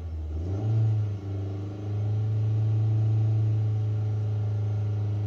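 Car engine revved and held at about 2,500 rpm, heard from inside the cabin, for an alternator charging test with headlights, radio and air conditioner loading the electrical system. The revs sag briefly at the start, climb back within about a second, then hold steady.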